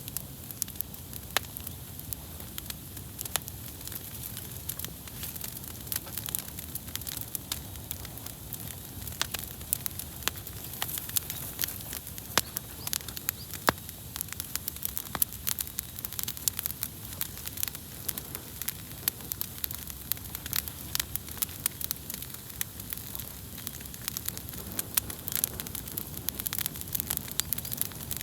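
Wood fire crackling, with many sharp pops scattered over a steady low rush.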